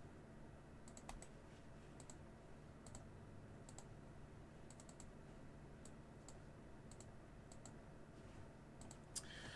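Faint, scattered clicks of a computer mouse and keyboard, irregular and about one or two a second, over near-silent room tone.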